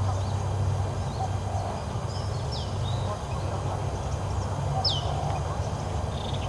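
Outdoor garden ambience: a steady low hum under scattered bird calls, with a few short, high chirps that sweep downward.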